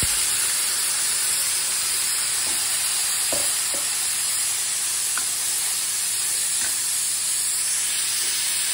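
Freshly added onion, garlic, ginger and green chilli paste sizzling steadily in hot oil in a kadhai.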